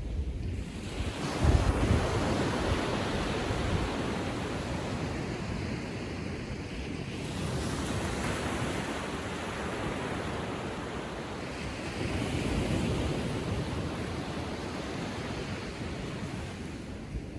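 Small ocean waves on a calm sea breaking and washing up the beach, the surf swelling and easing in a slow rhythm, with wind rumbling on the microphone.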